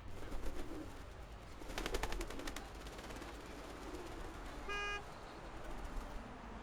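Street background noise, with a quick rattling clatter about two seconds in and a short single beep of a car horn near the middle.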